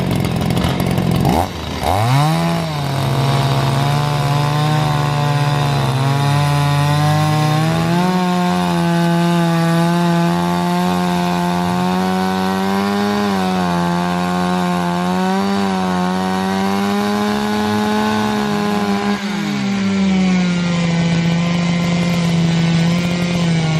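Two-stroke chainsaw running at high revs, its pitch dipping and climbing back about a second and a half in, then wavering as it cuts wood.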